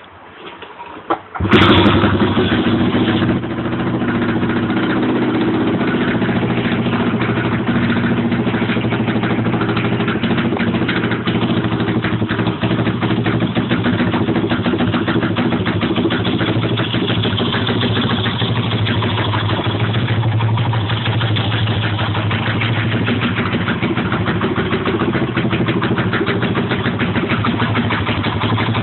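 Thumpstar pit bike's single-cylinder four-stroke engine being cold-started: it catches about a second and a half in, runs loudest for the first couple of seconds, then settles to a steady idle.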